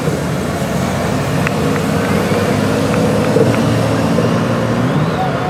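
Several heavy touring motorcycles running together at low parade speed, a steady overlapping engine rumble as the group rides in formation.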